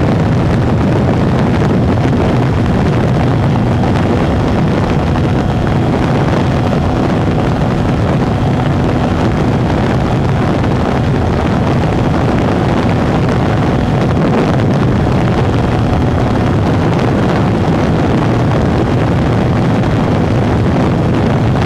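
Ducati Hypermotard 821's 821 cc L-twin with an SC-Project CRT exhaust running steadily at high speed, largely buried under heavy wind noise on the microphone.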